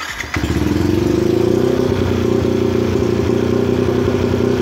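Yamaha motorcycle engine starting: a brief crank that catches within about half a second, then idling steadily. It runs on the first map of a Juken 5+ ECU, which may still be empty.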